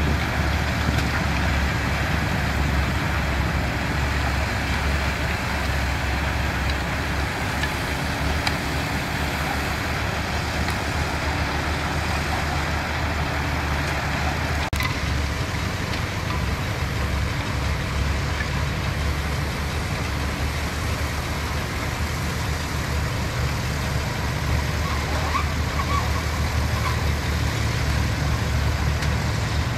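Engines of heavy construction machinery, bulldozers and dump trucks, running steadily with a deep low hum; the sound changes abruptly about halfway through.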